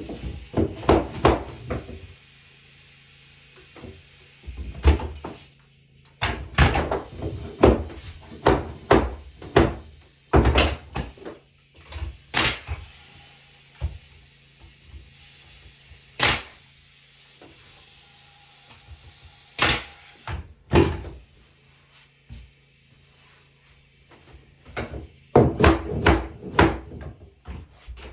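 Irregular wooden knocks and thuds during cabin woodwork. They come in clusters of several quick strikes, with quiet pauses between.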